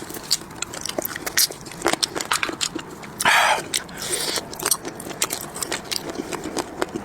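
Close-up eating sounds of a person gnawing and chewing marinated chicken feet: many small crunches and clicks, with a brief louder sucking noise a little over three seconds in.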